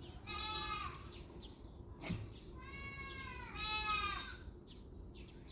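Domestic cat meowing twice, a short meow and then a longer, drawn-out one, with a sharp click between them.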